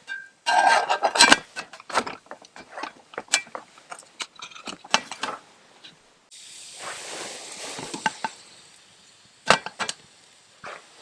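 Cookware and utensils clinking and knocking, then a sudden sizzling hiss about six seconds in that fades over a few seconds, and one more sharp knock near the end.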